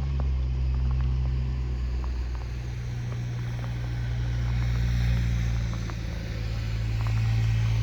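A vehicle engine running steadily, a low hum that swells and eases a little, with faint scattered ticks over it.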